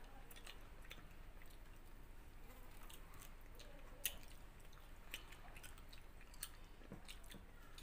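Faint chewing and wet mouth clicks of people eating rice and chicken curry with their hands, with scattered short clicks, the loudest about four seconds in.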